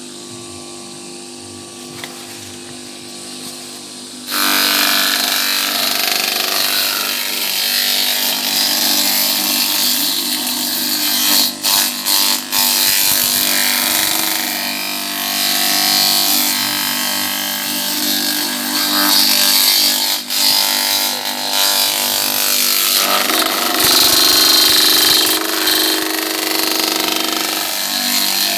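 Electric-motor-driven animal-feed chopper running with a steady hum; about four seconds in a loud, rough chopping noise starts as material is fed through, and the motor keeps running under load, with a few brief dips.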